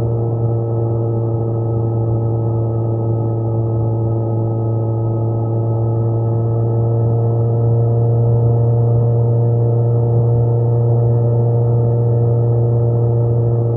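Kawasaki Z900's inline-four engine running at steady revs under way, an even, unchanging drone with no gear changes or revving.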